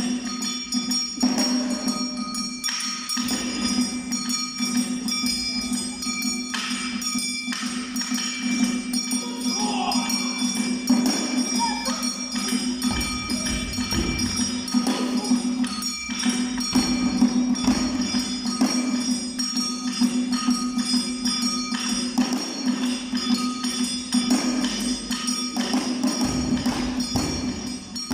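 Live Awa Odori dance music: repeated drum strokes and bright metallic percussion in a driving rhythm over a steady sustained tone.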